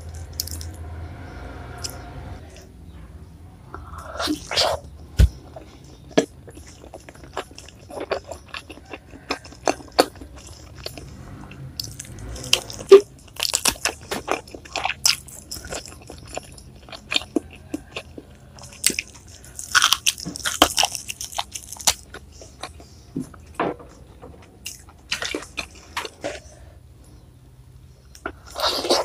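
Close-miked eating: irregular crunchy bites and chewing, with sharp clicks and wet mouth sounds, a few louder clusters of crunching in between quieter chewing.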